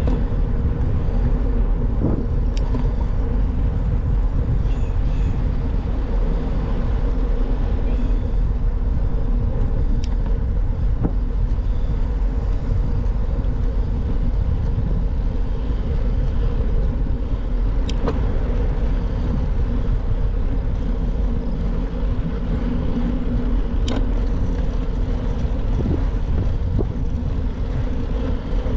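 Steady rumble of a bicycle being ridden on the road, with a few sharp clicks several seconds apart.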